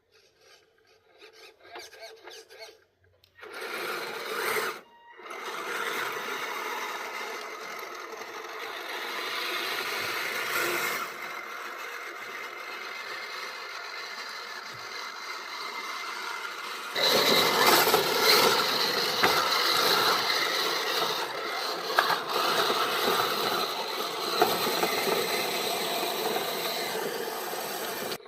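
Radio-controlled scale truck driving over forest ground: a steady electric motor and gear whine under a rasping, scraping noise from the running gear. It stops briefly about five seconds in and gets louder from about halfway through.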